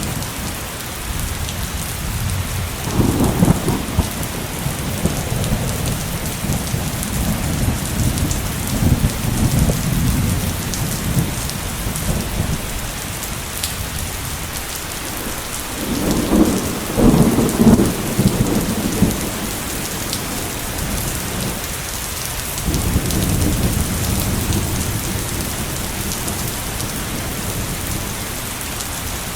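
Heavy steady rain pouring down through a thunderstorm, with rolling thunder rumbling in several long swells. The loudest roll comes about halfway through, and weaker ones come a few seconds in and again near the last third.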